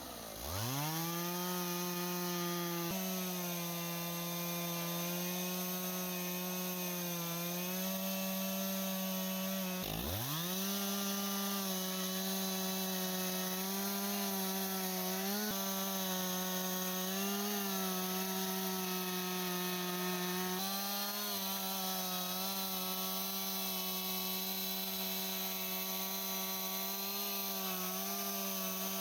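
Stihl chainsaw cutting through a stack of pine sawmill slabs. It revs up from idle twice, at the start and about ten seconds in, and between those holds a steady high-pitched full-throttle note that wavers slightly under the load of the cut.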